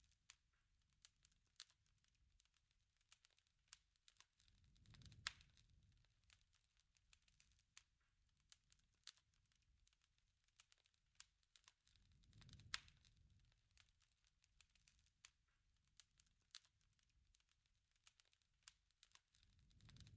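Campfire crackling faintly, with irregular small pops and snaps. About every seven to eight seconds a louder pop comes with a soft low whoosh of the flames.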